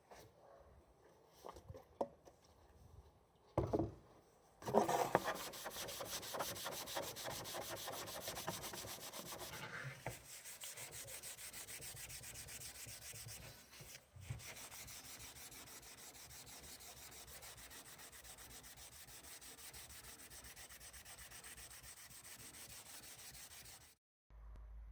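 A Volkswagen Golf trim ring being hand-sanded with sandpaper in quick, even back-and-forth strokes, a steady scratchy rubbing. It starts about five seconds in after a few handling clicks and stops abruptly near the end.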